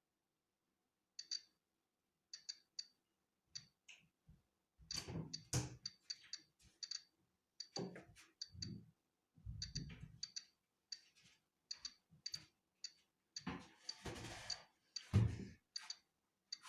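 Polon EKO-C digital Geiger counter clicking at random intervals as it counts natural background radiation: short, high ticks, about one or two a second. A few low dull thumps come in between, the loudest a little after fifteen seconds, along with a brief rushing noise just before it.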